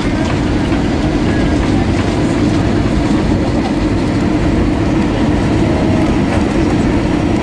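Steady, loud cabin noise inside an Airbus A320-232 airliner: the rumble of its engines and the airflow, even throughout.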